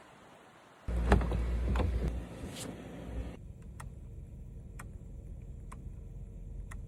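Mercedes-AMG GLE 63 S's twin-turbo V8 engine, coming in suddenly and loud about a second in and running strongly for a couple of seconds, then a quieter steady low rumble with a few sharp ticks.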